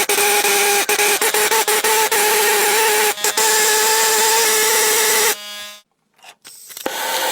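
A power tool runs steadily against metal, a dense grinding noise over a constant motor tone, typical of rust being ground or wire-brushed off steel. It cuts off suddenly about five seconds in, and after a brief silence a different steady rushing noise starts near the end.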